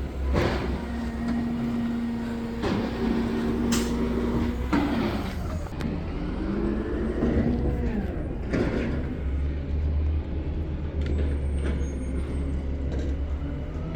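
Heavy diesel garbage truck engine running, with a steady low drone and a held whine that bends in pitch partway through, broken by several short hisses of the kind air brakes make.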